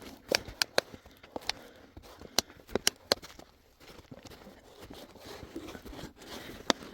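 A series of sharp, irregular clicks and knocks, several close together in the first three seconds and one more near the end.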